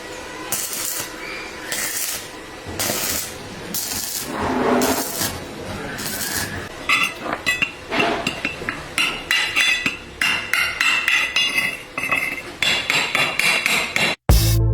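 Metalwork with a hammer: a few harsh scraping strokes, then a quick run of ringing taps of a hammer on metal that grows denser toward the end. Music starts right at the end.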